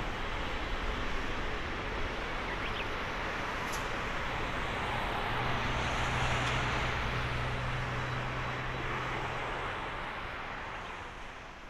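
Boeing 767-300F freighter's jet engines at high power, plausibly on its takeoff: a steady, broad rushing noise with a low hum that swells through the middle, then fading away near the end.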